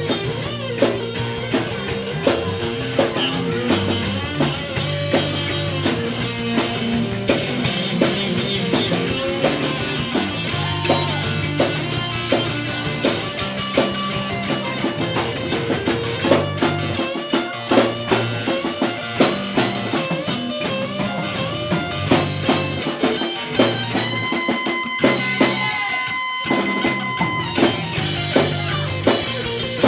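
Live rock band playing an instrumental stretch: lead electric guitar running fast lines over bass and drum kit. A single high note is held for a few seconds about three-quarters of the way through.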